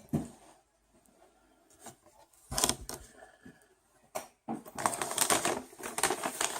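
Paper takeout packaging being handled: scattered clicks and knocks, a short crinkling burst about two and a half seconds in, then steady crinkly rustling from about four and a half seconds in.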